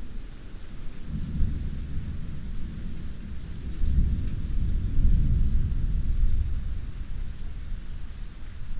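Heavy rain falling steadily, with a long roll of thunder that swells about a second in, is loudest around the middle, and slowly dies away.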